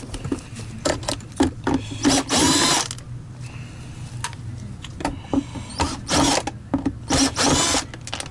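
Power drill-driver running in three short bursts, with clicks and knocks of parts being handled in between.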